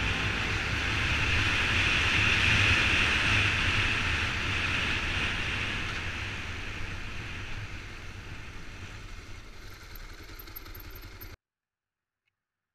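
Motorcycle riding noise, a steady engine rumble with rushing hiss, fading out gradually and cutting off suddenly near the end.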